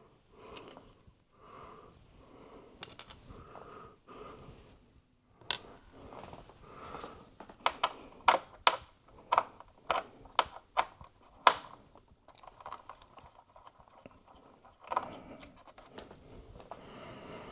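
A small screwdriver working at the heatsink screws inside an opened iMac. Soft, repeated scraping turns give way to a run of about ten sharp clicks and taps, with one more click a few seconds later.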